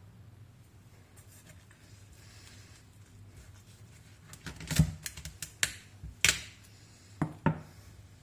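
A few sharp knocks and clicks of kitchen items being handled, after a quiet first half; the loudest come about five and six seconds in, with two more near the end.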